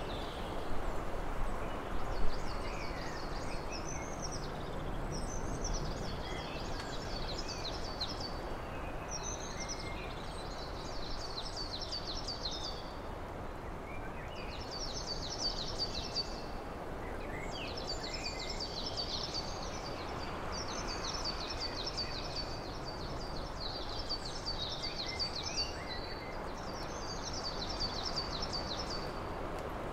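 A songbird singing the same short phrase of rapid, high repeated notes over and over, one every two or three seconds, above a steady outdoor background hiss.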